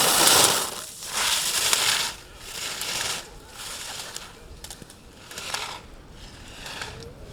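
Skis carving slalom turns on hard snow: a scraping hiss from the edges with each turn, about one a second, fading as the skier goes down the course. A few light knocks come near the end.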